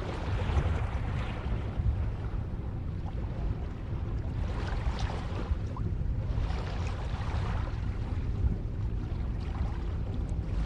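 Ocean waves breaking and washing on a shore, a deep steady rumble under hissing surges that swell and fall back every two to three seconds.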